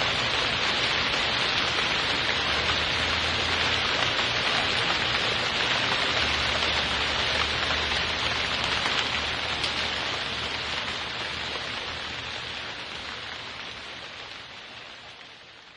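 Steady rain falling, an even hiss that fades out over the last several seconds.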